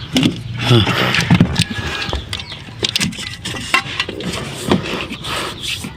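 Irregular clicks and knocks of hand tools and parts being handled during removal of the fuel tank and fuel pump.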